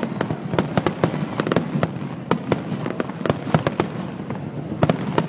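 Aerial fireworks display: many sharp bangs and crackles from bursting shells in quick, irregular succession over a low rumble.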